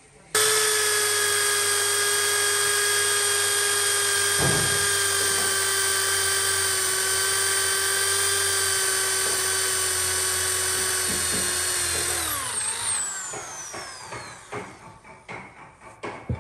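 A power tool's electric motor switches on abruptly and runs at steady speed with a high whine. About twelve seconds in it is switched off and winds down, falling in pitch, followed by a series of light taps near the end.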